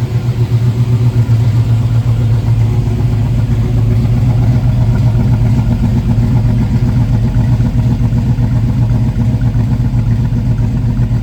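1968 Mustang GT's J-code 302 V8, on Holley Sniper fuel injection, idling steadily about a minute after a cold start following months of sitting, with a strong, rapidly pulsing low exhaust note.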